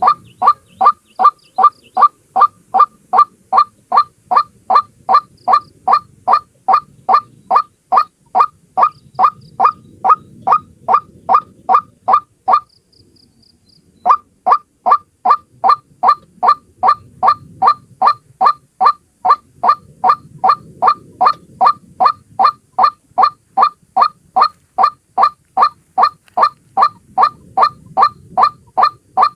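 White-breasted waterhen (ruak-ruak) calling, a single bird, in a fast, even series of short notes, about three a second. The notes break off for about a second near the middle and then resume. It is a lure recording of the call, used to draw the birds in.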